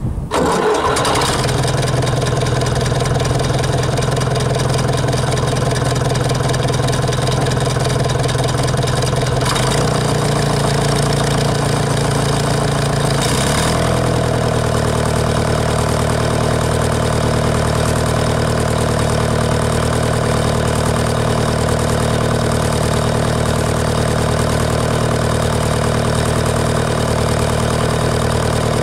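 Old diesel tractor engine running steadily while the tractor trundles along slowly, heard close up from a camera mounted on its fuel tank. The engine note shifts about ten seconds in and again a few seconds later.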